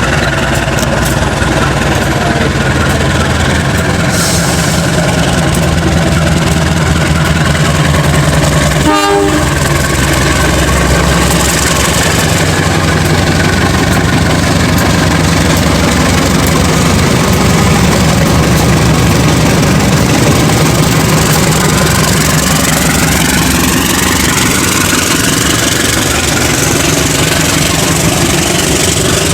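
GE 7FDL-8 eight-cylinder locomotive diesel engine running loudly and steadily. There is a sharp click about nine seconds in, and a rising whine comes in over the last several seconds.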